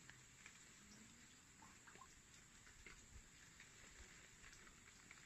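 Near silence with a faint steady hiss, broken by scattered faint clicks and ticks.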